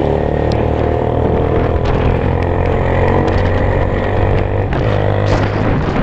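Motorcycle engine running steadily under way, its note shifting briefly about four and a half seconds in.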